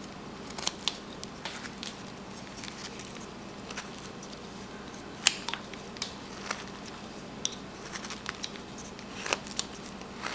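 Hand carving tool shaving small chips from a wooden figure: irregular crisp snicks and clicks of the blade cutting wood, with one sharper click about five seconds in.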